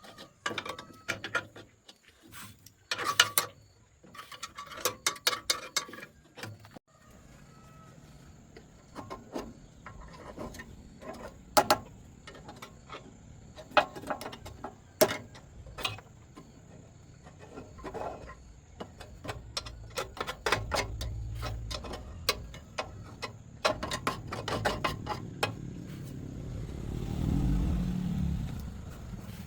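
Irregular clicks, taps and knocks of hand-tool work on a rice-milling machine under repair. A low rumble swells twice in the second half, loudest near the end.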